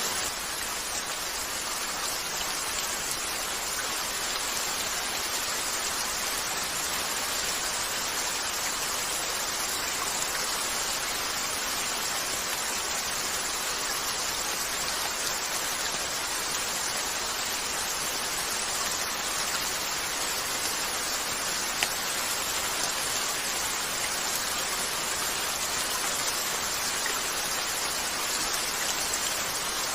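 Steady rain falling on a window, an even hiss with a few isolated faint clicks, one about two-thirds of the way in.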